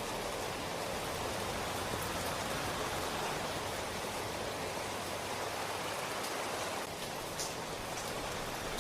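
Steady rain falling, an even hiss with a few sharper drop ticks standing out near the end.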